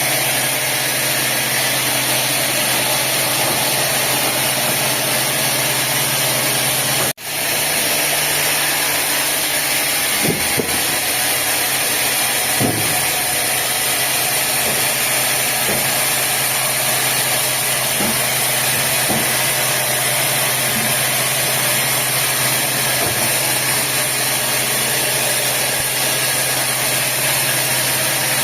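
Sawmill machinery running steadily: an engine-like hum under a strong hiss, which cuts out for an instant about seven seconds in.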